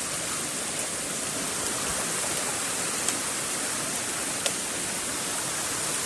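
Steady rushing of waterfall and stream water, an even hiss with a couple of faint taps partway through.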